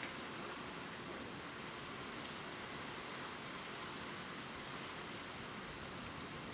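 Gentle rain falling steadily on leaves, an even hiss with a few sharper drop ticks, one right at the start and one near the end.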